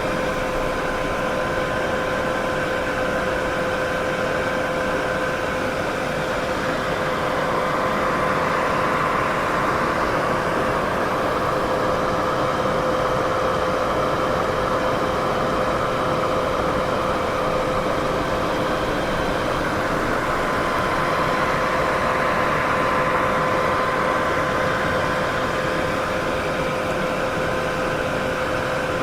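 Continuous white-noise sleep sound: a steady hiss, fuller in the middle range than at the top or bottom, with a faint steady hum at two pitches running through it. The level swells and eases slightly and slowly.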